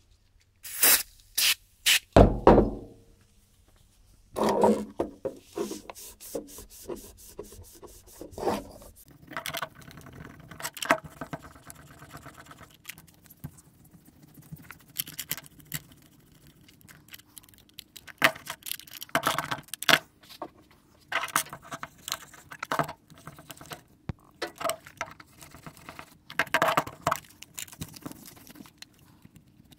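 Hands handling and rubbing the metal parts of a vintage studio limiter: irregular scraping and rubbing with scattered clicks and knocks, the loudest knocks and a low thump coming a second or two in.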